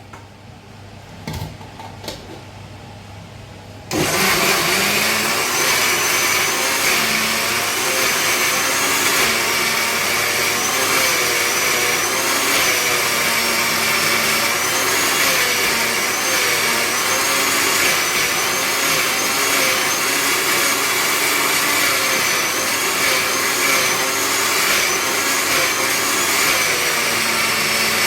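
A few light clinks, then about four seconds in an electric mixer grinder switches on and runs steadily, its pitch wavering slightly as it grinds the masala paste for chicken pulimunchi.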